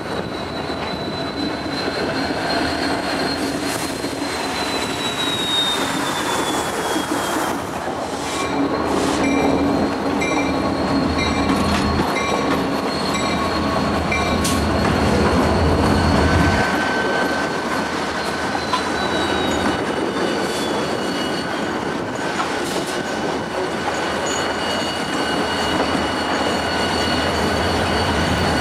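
Freight train of diesel locomotives, including a GTW SD40-3, moving slowly past with the engines rumbling and the wheels squealing in thin high tones that drift in pitch. A run of sharp clicks of wheels over rail joints comes about a third of the way through.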